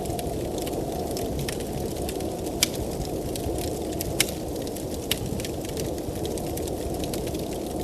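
Wood fire crackling in a fireplace, with sharp pops (three louder ones in the middle), over the steady low rush of blizzard wind.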